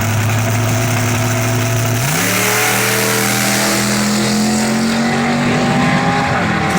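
Drag race car engine running loud, then revving up sharply about two seconds in and holding a high, slightly climbing note until it cuts off near the end.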